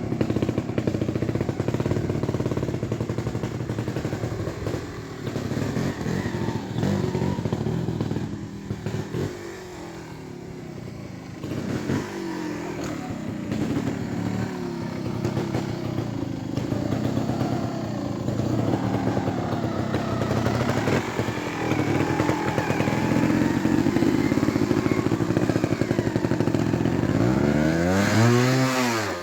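Beta Evo trials motorcycle engine running at low speed, revving up and down in short blips, with a quieter stretch about ten seconds in and a sharp rev that rises and falls near the end.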